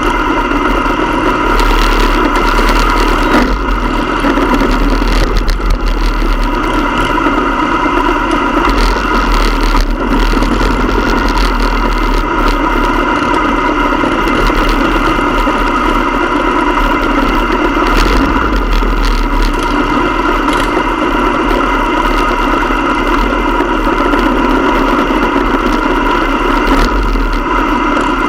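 Motorcycle engine running at a steady speed, with a heavy low rumble underneath.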